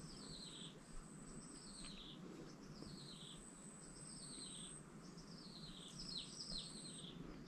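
Faint bird song: a string of short, high, falling whistled notes, about one a second. A thin, high, steady tone runs beneath it, breaking off now and then.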